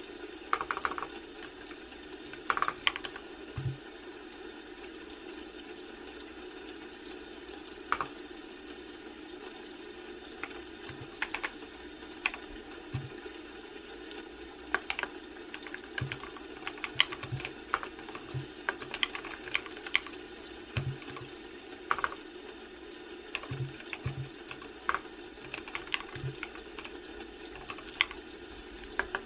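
Computer keyboard typing in irregular, scattered keystrokes with pauses of a few seconds between bursts, some strokes with a low thud, over a steady low background hum.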